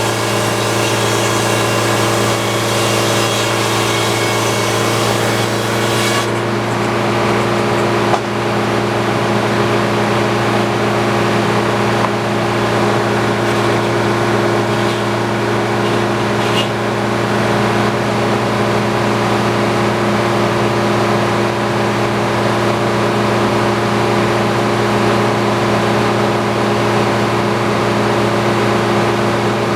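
Antique circular sawmill running steadily with a constant engine hum. A harsh hiss over it stops abruptly about six seconds in, and there is a single knock a couple of seconds later.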